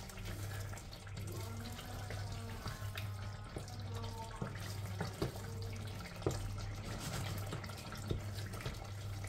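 Chicken pieces sizzling and bubbling in their spiced juices in a steel pot while being stir-fried, with the spoon scraping and knocking against the pot now and then. A steady low hum runs underneath.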